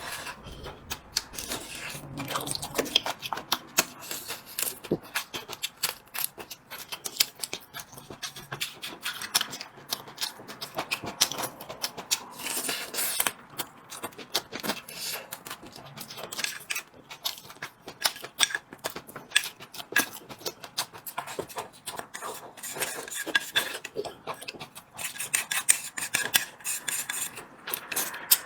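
Close-miked eating: continuous chewing and mouth sounds with many sharp clicks, and now and then a clink of tableware.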